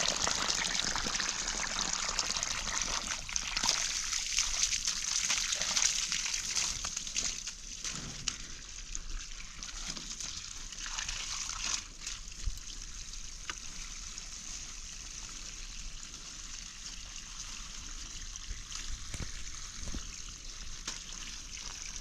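Water running and trickling steadily. It is louder for the first several seconds, then settles to a lower, even flow.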